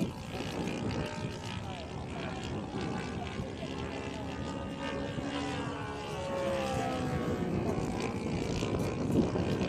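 Engine and propeller of a Seagull Edge 540 radio-controlled model aerobatic plane in flight, a steady drone whose pitch slides up and down as it manoeuvres.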